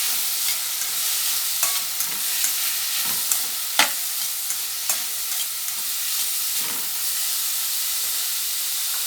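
Chopped vegetables sizzling in hot oil in a pot as they are stirred, with a utensil scraping and knocking against the pot now and then; one knock a little under four seconds in is the sharpest.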